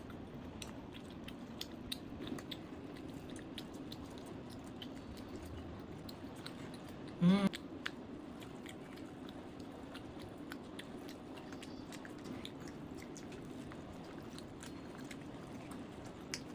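Close-up chewing and biting of roasted chicken eaten by hand, with many small mouth clicks throughout. About seven seconds in comes one short, loud pitched sound from a voice.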